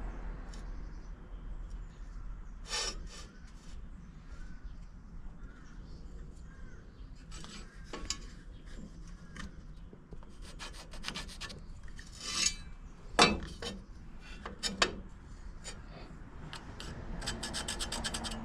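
Pencil scratching layout lines onto wood along a square, in short strokes, with a few sharp knocks as the square and wood are handled; the loudest knock comes about 13 seconds in.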